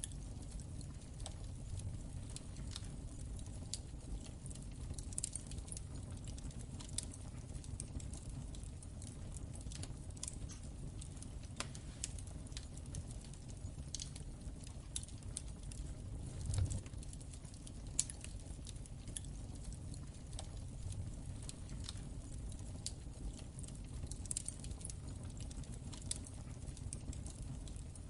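Wood fire in a fireplace crackling, with irregular snaps and pops over a steady low rumble of the flames; a couple of louder pops come a little past the middle.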